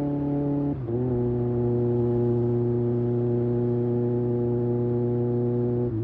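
Kawasaki ZX-6R's inline-four engine running at steady cruising speed. About a second in, the note breaks briefly and settles at a lower pitch, then holds steady.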